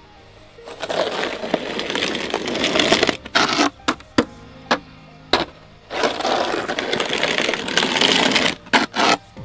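Snow crunching and scraping in two long stretches, with several short sharp cracks between them.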